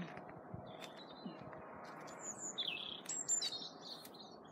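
Small songbirds chirping and whistling in short high phrases, mostly in the second half, with a few faint ticks.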